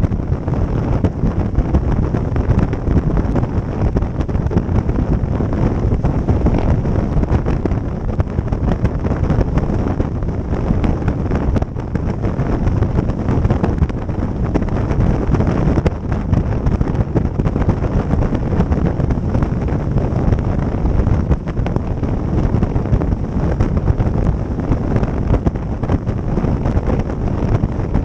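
Motorboat under way: steady motor and water noise, with wind buffeting the microphone.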